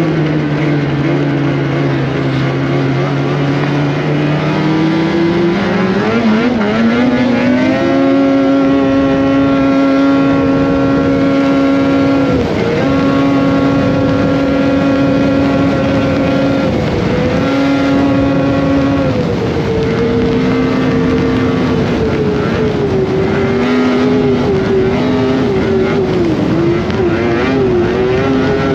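Polaris Indy Cross Country 600 snowmobile's two-stroke twin engine running under throttle. It is low for the first few seconds, climbs about six seconds in and then holds a steady high pitch, with several brief dips as the throttle is eased and picked up again.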